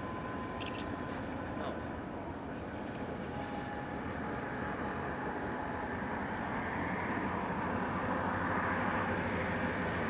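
Diesel freight train running past in the rail yard, a steady dense noise that grows gradually louder, with a faint thin high whine over it.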